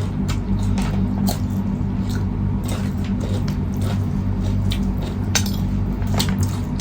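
Clicks and clinks of cutlery against plates during a meal, scattered irregularly, with chewing, over a steady low hum.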